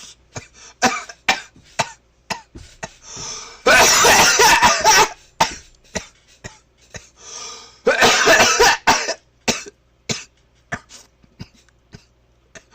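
A person coughing in fits: many short, sharp coughs and gasps, with two longer, louder spells of coughing about four and eight seconds in.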